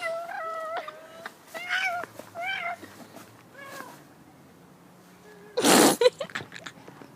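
Cat meowing several times, a long drawn-out meow followed by shorter, bending ones. Near the end comes a short, loud rushing burst.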